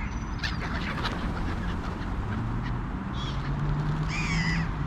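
Crows calling, a couple of harsh caws in the second half, over a steady low rumble.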